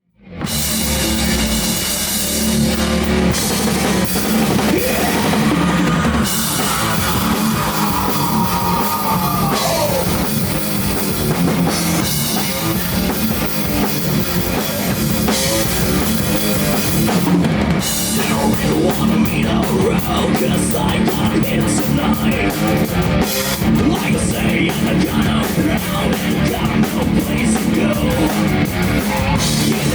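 Rock band playing loud, dense rock music with a full drum kit and electric guitar; about five seconds in, a held guitar note bends slowly down.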